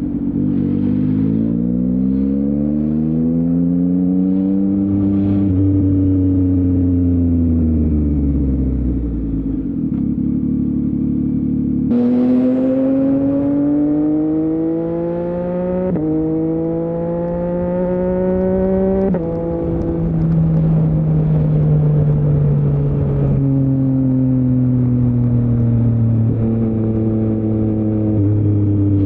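Yamaha MT-09's CP3 inline three-cylinder engine through an Akrapovic full-system exhaust, heard while riding. The engine note climbs and falls with the throttle, dips as the rider rolls off, then jumps up in pitch and later drops abruptly at a gear change before settling into steadier cruising.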